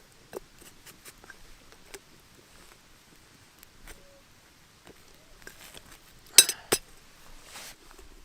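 Cooking pot and utensils clinking: scattered light clicks, then two sharp metal clinks close together about six and a half seconds in.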